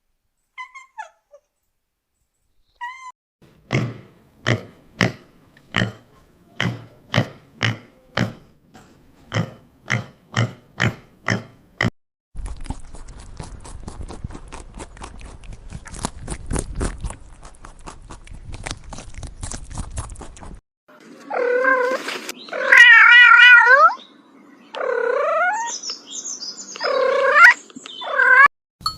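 Domestic cat purring, first in rhythmic breaths and then in a continuous buzzing stretch, followed by four loud meows near the end.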